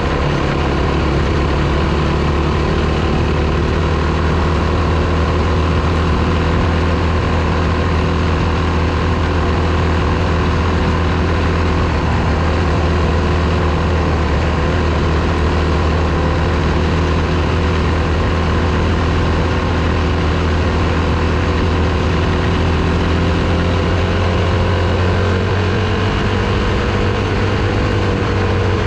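Single-cylinder four-stroke dirt bike engine running steadily, its pitch shifting slightly near the end.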